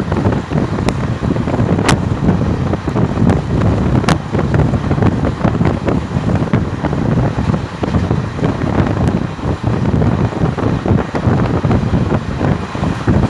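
Passenger train running at speed, heard from on board: a steady low rumble of wheels on track with wind buffeting the microphone, and a few sharp clicks.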